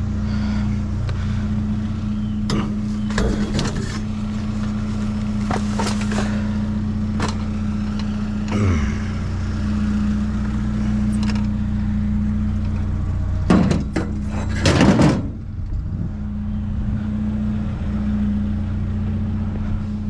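Engine idling steadily with a low hum, while scattered knocks and clatter of items being handled sound over it. There is a louder burst of rattling about thirteen to fifteen seconds in.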